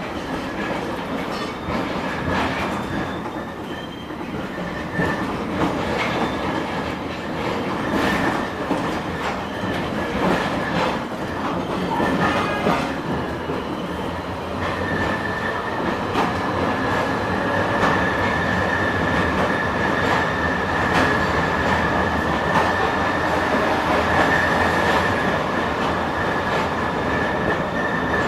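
LM-99AVN tram running along the line, its wheels knocking fairly softly over the rail joints at uneven intervals. A steady high whine sets in about halfway and holds to the end.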